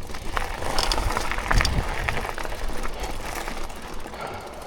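Mountain bike rolling along a dirt trail: tyre noise and a low rumble, with the chain and frame clicking and rattling over bumps.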